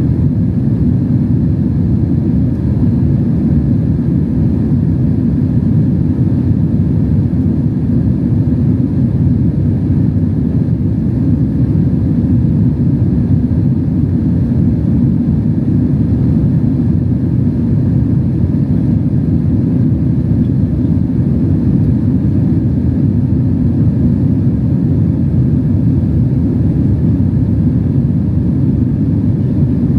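Steady low rumble of engine and airflow noise heard inside the passenger cabin of a Boeing 767-300 airliner, unchanging throughout.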